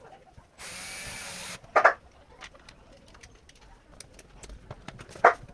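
Machine screws being tightened into a keg's handle: a power screwdriver runs steadily for about a second near the start. Two short, loud squeaks follow, one about two seconds in and one near the end.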